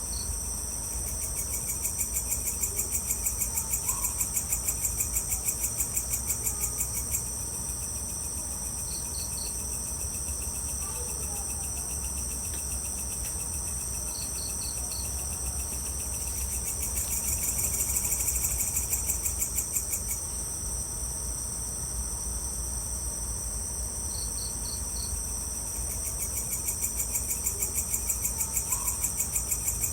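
Evening chorus of crickets and other insects: a steady, fast high trill, with short runs of three or four chirps every few seconds and a lower pulsing trill that comes and goes. A steady low rumble sits underneath.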